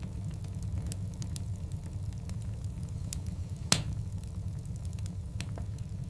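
Wood fire burning in a fireplace: a steady low rumble with scattered small crackles, and one sharp, loud pop a little past the middle.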